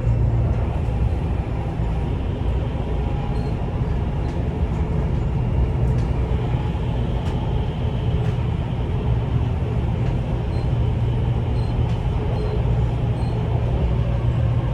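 Dubai Metro train running between stations, heard inside the carriage: a steady low rumble of the running gear and motors, with a few faint ticks.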